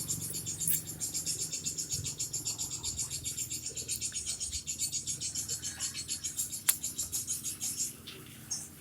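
Insect chirring: a fast, even, high-pitched pulsing of about seven or eight pulses a second, which stops near the end and gives way to a few separate short chirps.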